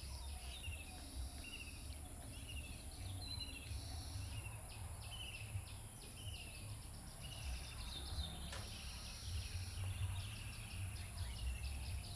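Birds chirping: many short, repeated falling chirps over a steady low rumble.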